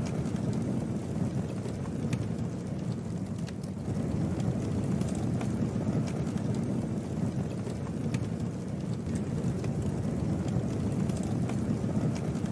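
Campfire burning: a steady low rush of flames with scattered small crackles and pops from the wood.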